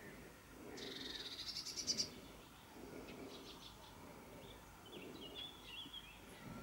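Wild songbirds singing: a rapid trill that grows louder for about a second and stops short, followed by shorter, scattered chirps.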